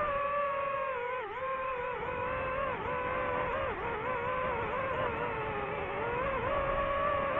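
DJI FPV drone's motors and propellers whining steadily, the pitch dipping briefly several times as the throttle eases off and comes back.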